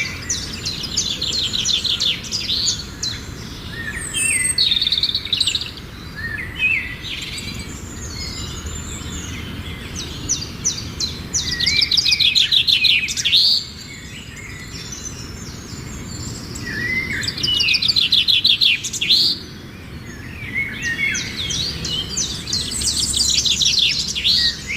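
Songbird singing: phrases of rapid high trills mixed with chirps and short whistled notes, repeated every few seconds with brief pauses between, the loudest phrases about halfway through and again near the three-quarter mark.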